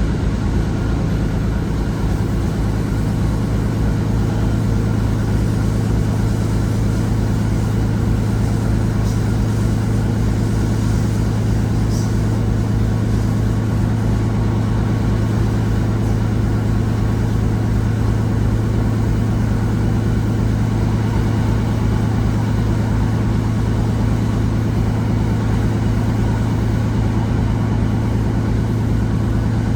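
Class 150 Sprinter diesel multiple unit's underfloor Cummins diesel engine running hard at a steady pitch: a loud, constant drone with a rapid low throb beneath it.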